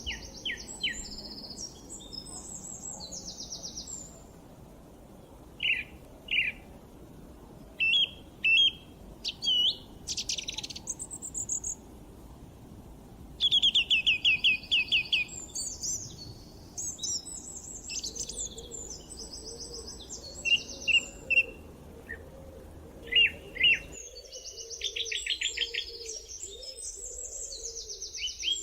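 Several songbirds chirping and singing, with overlapping rapid trills and short call notes. The loudest is a fast series of repeated notes about halfway through. A low background rumble drops out abruptly about four-fifths of the way through.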